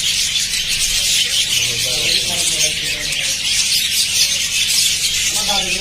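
A flock of budgerigars chattering nonstop, a dense mix of high warbles, chirps and squeaks.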